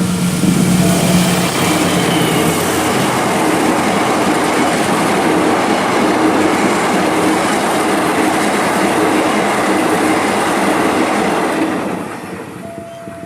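Passenger train passing close by at speed, the locomotive followed by a steady rush and rattle of carriages over the rails; the noise falls away about a second before the end as the last carriage goes by.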